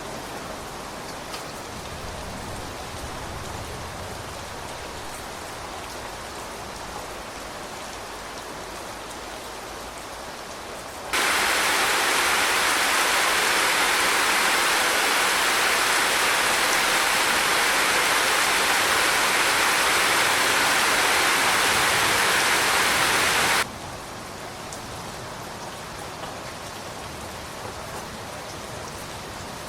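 Steady rain falling, with a few faint drop ticks. About a third of the way in, it switches abruptly to much louder, heavier rain, which cuts back to the gentler rain about two-thirds of the way through.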